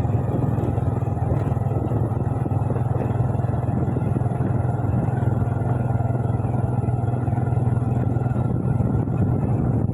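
Motorbike engine running steadily while riding, heard from on the bike as a constant low drone.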